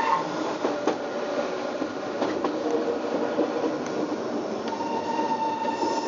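Metre-gauge electric train of the Centovalli Railway running on a sharply curving track, its wheels squealing on the curve at the start and again from about five seconds in, with a few sharp clicks of the wheels over the rail joints.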